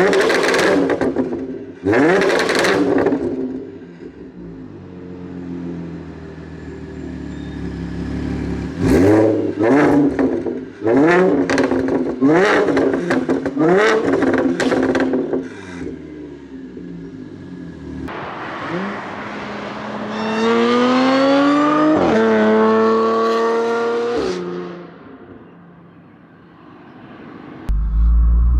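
Audi S4 B8.5's supercharged V6 through an AWE exhaust and test pipes, revving in a series of quick sharp blips, then pulling hard in a longer climb that breaks briefly about two-thirds in, as at a gear change, before rising again. A loud low rumble starts near the end.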